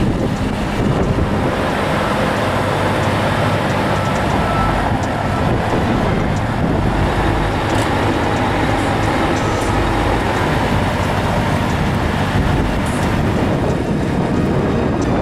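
Motor vehicles running steadily: a continuous engine and road noise with no sudden events.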